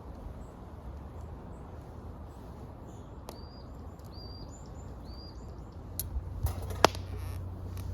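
A bird calling outdoors in short, repeated whistled notes over a steady low background rumble. A few sharp clicks and knocks come near the end, the loudest about seven seconds in.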